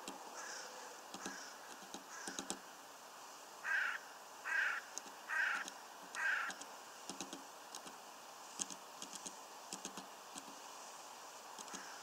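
Birds at a feeder: scattered light taps and clicks with faint high chirps, and in the middle four short harsh bird calls a little under a second apart, the loudest sounds.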